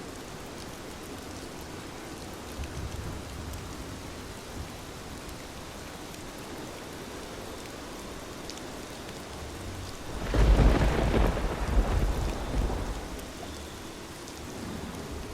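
Heavy rain falling steadily, with a faint rumble of thunder a few seconds in. About two-thirds of the way through a loud peal of thunder breaks and rolls for about three seconds before dying back into the rain.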